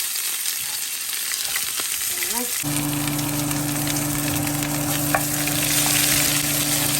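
Tempering spices sizzling and frying in hot oil in a pan, a dense steady hiss. About two and a half seconds in, a steady low hum starts under it.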